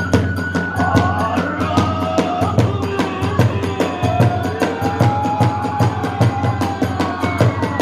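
Kagura hayashi music: a bamboo flute melody over a fast, steady beat of drum strokes and clashing hand cymbals.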